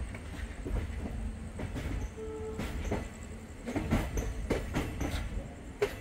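Express passenger train in motion: the steady low rumble of the moving coach, with the wheels clacking irregularly over rail joints, several times in the second half.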